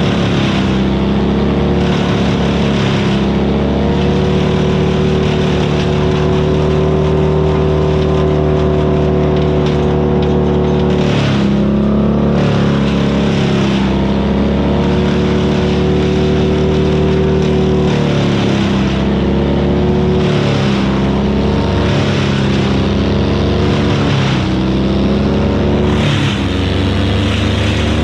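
Vermeer BC1000XL wood chipper's gasoline engine running hard. Its pitch dips and recovers several times as it takes load chipping wood.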